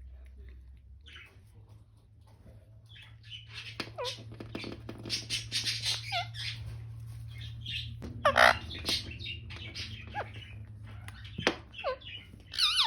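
Pet Indian ringneck parakeet chattering and calling: quiet at first, then a run of clicks and chatter starting about three seconds in, a loud squawk a little past the middle, and more short calls near the end.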